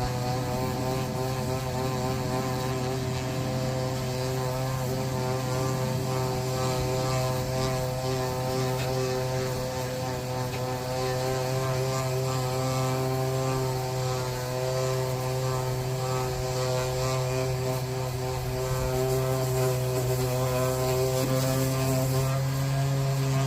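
A motor running steadily, a constant pitched hum that holds the same note throughout.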